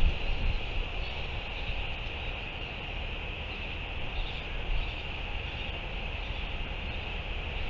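Wind rumbling on an outdoor microphone, with a steady high-pitched hiss over it. The rumble is strongest right at the start.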